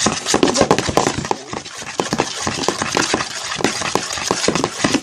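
Spoon stirring a slime mixture in a container, with many rapid, irregular clicks and scrapes as the spoon knocks against the sides.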